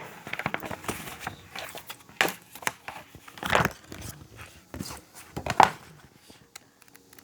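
Irregular rustling and crinkling noises with a few louder crackles, fading out about six seconds in.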